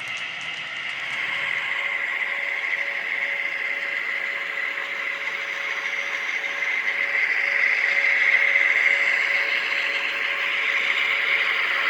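HO scale model train running on the layout, a steady whine and hum that grows gradually louder as the train comes closer.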